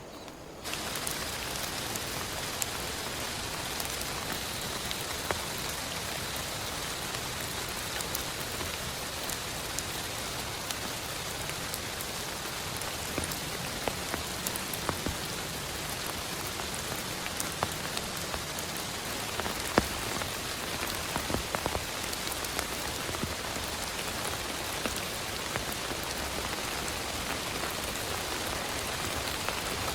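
Heavy rain falling steadily: a dense hiss scattered with sharp ticks of individual drops striking a surface. It comes in suddenly less than a second in.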